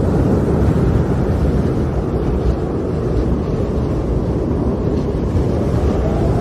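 Strong snowstorm wind blowing as a deep, steady rush of noise, without breaks or gusts standing out.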